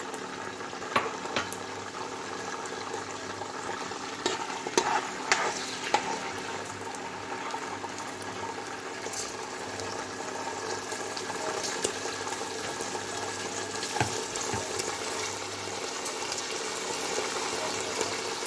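Green peas sizzling in hot oil in a steel kadhai, a steady frying sizzle, with a few short clinks scattered through it.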